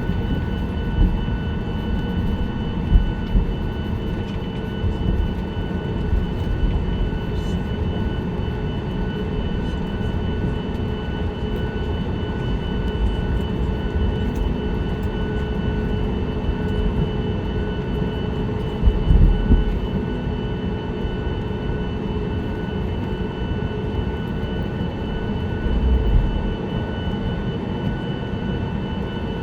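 Steady cabin noise inside a Boeing 737-9 MAX: a low drone of engines and airflow, with a few steady whining tones over it. A couple of short low bumps come about two-thirds of the way in and near the end.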